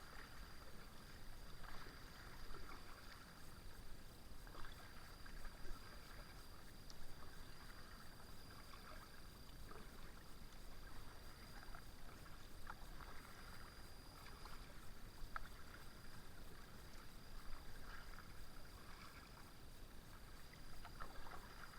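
Kayak paddle dipping into calm water, with faint, irregular splashes and drips every second or two.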